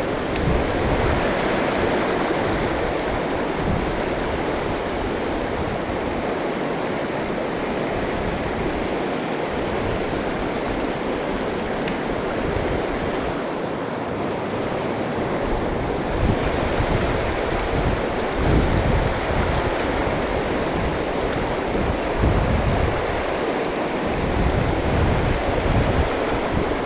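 Mountain stream rushing steadily, with wind buffeting the microphone in irregular gusts.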